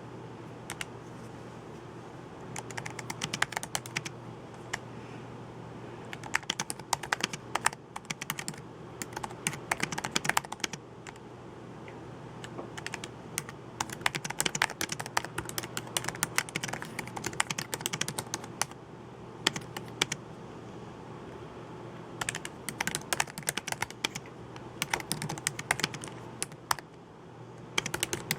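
Typing on a computer keyboard: runs of quick key clicks in bursts, with brief pauses near the start, about halfway through and near the end, over a steady low hum.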